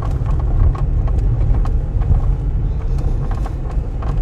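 Vehicle driving slowly, heard from inside: a steady low rumble with frequent small clicks and rattles.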